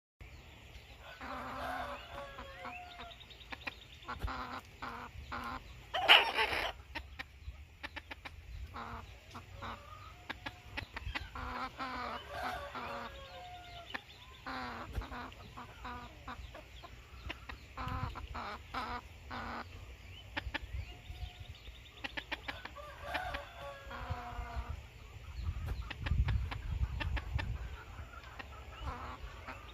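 Chickens clucking in repeated bouts of short calls every few seconds, with one loud sharp noise about six seconds in and some low rumble near the end.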